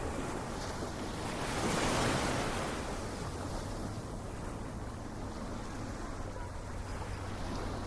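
Ocean waves washing on a shore: one wave swells and breaks about two seconds in, then a steady wash of surf follows.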